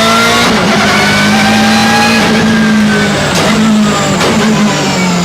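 BMW M3 GTR race car's 4.0-litre P60 V8 at full throttle, its note climbing and easing in pitch. It is broken by quick gear changes with sharp clicks about three and four seconds in, the shifts of its straight-cut Hewland sequential dog box.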